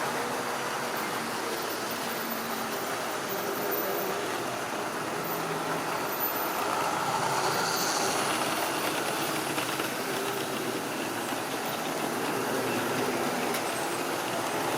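Model railway train running along the track, a steady rolling noise with no breaks.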